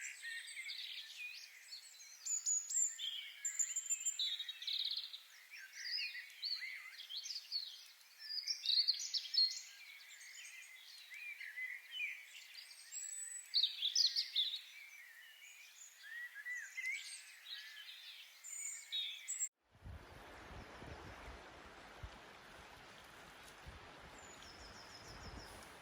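Several small birds singing and chirping, a busy chorus of short calls and warbles. About twenty seconds in it cuts off abruptly to a steady rushing noise with a low rumble.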